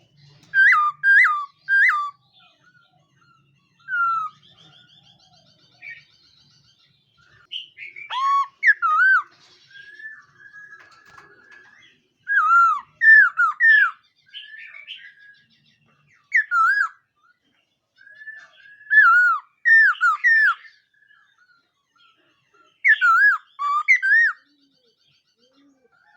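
Laughingthrush singing: loud, clear whistled phrases of two or three swooping notes, repeated every few seconds, with quieter chattering notes in between.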